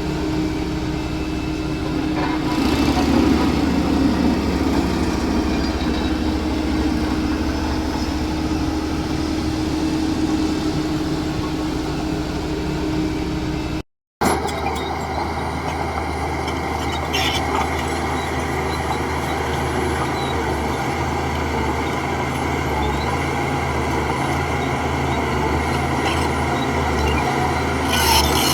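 Heavy diesel machinery engine running steadily. About halfway the sound cuts out for a moment, and an engine running at a different pitch follows, with a few clanks near the end.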